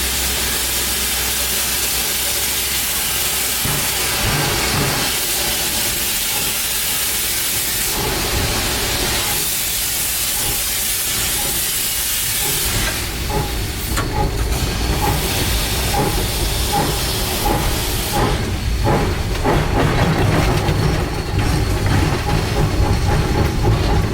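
Steam locomotive K 88, built by Rogers, hissing steam for the first half. About halfway through, regular exhaust beats start and grow louder as the engine works its train.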